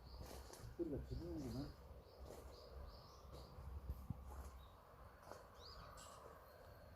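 Small birds chirping, short high chirps repeating about twice a second over a low rumble. About a second in comes a brief wavering, lower-pitched call.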